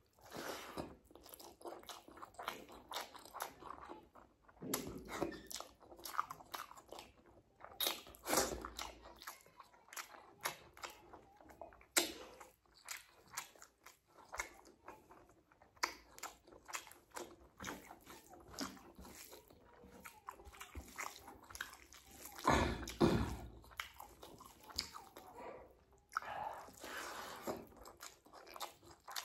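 Close-miked eating sounds: a man chewing mouthfuls of rice and egg curry, with many wet smacks and clicks of the lips and tongue and a few louder bursts of chewing.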